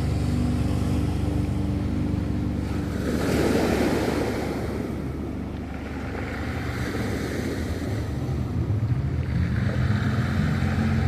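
Ocean waves washing onto a shore: one wave breaks and surges about three seconds in, then recedes. A second, softer wash comes near the end, over a constant low rumble of surf.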